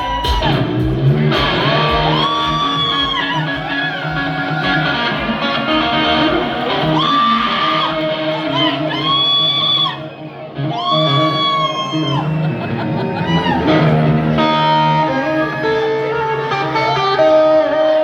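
Live hard-rock band playing loud, with an electric guitar lead of held notes that bend up and fall back over bass and drums, and a brief dip about ten seconds in.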